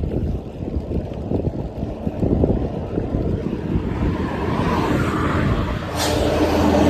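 Road traffic noise with wind rumbling on the microphone while riding along a road. A motor vehicle grows louder and passes close by near the end, leaving a steady engine tone.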